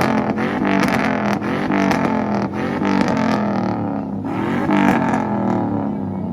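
Chevrolet Silverado pickup's engine being revved hard in repeated blips, its pitch climbing and falling again and again, with sharp cracks from the exhaust in between. The revs drop away near the end.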